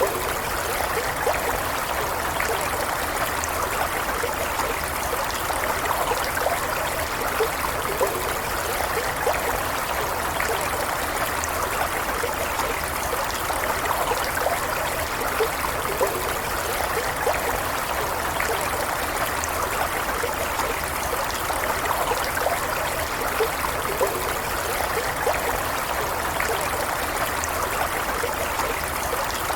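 Stream water flowing steadily over stones, a continuous rushing trickle with small splashes and gurgles and no let-up.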